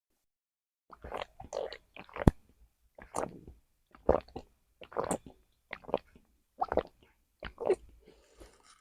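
Someone gulping down a drink close to the microphone: a series of swallows, about one a second, after a second of quiet.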